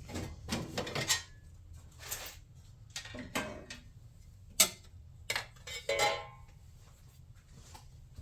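Irregular light clicks and clatter of small parts and hardware being handled, with a sharp knock a little past halfway.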